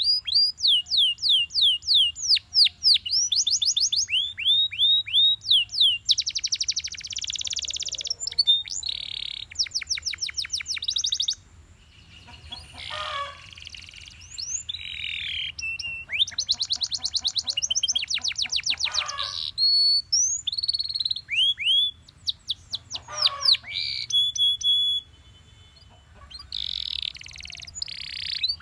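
Belgian canary singing a long song of rapid trills: fast runs of repeated high sweeping notes, changing to a new phrase every second or two. There is a short pause about twelve seconds in and another near the end.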